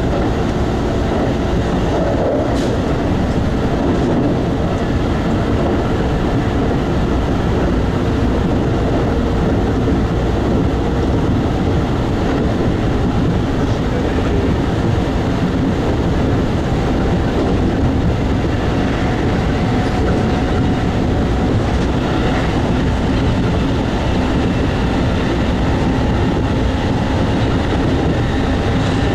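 Keikyu 2100 series electric train running at speed, heard from inside the cab: a steady, even running noise of wheels on rail.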